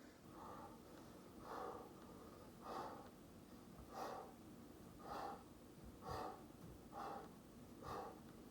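A person breathing out sharply in a steady rhythm, about one breath a second, from the exertion of a workout exercise.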